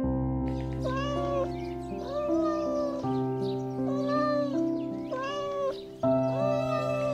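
Domestic cat meowing repeatedly, about once a second. Each meow rises and then falls in pitch, over background music.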